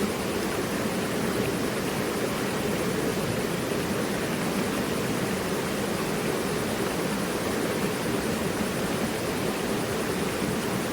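Mountain river rushing steadily, an even, unbroken noise of flowing water.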